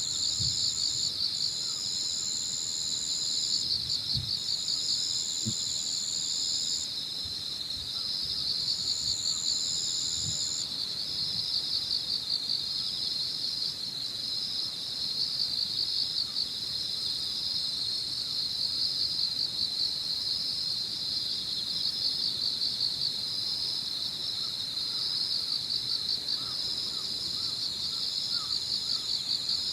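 Evening insect chorus of crickets: a dense, fast-pulsing trill that never stops, with a thinner, higher trill from another insect that comes and goes in stretches of a second or a few. A few soft low thumps come in the first ten seconds.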